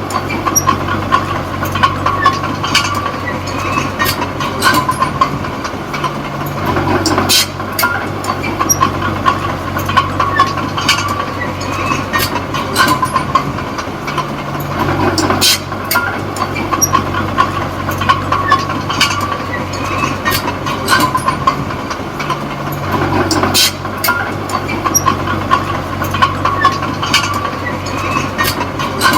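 Komatsu D20P crawler bulldozer's diesel engine running under work, its note shifting every few seconds, with frequent clanks from the steel tracks.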